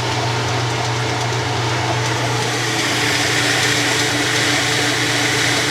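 1993 Kenmore 80 Series top-load washer spinning, its direct-drive motor and transmission giving a steady hum with a strong low end. Over it runs a steady hiss that grows a little louder about halfway through.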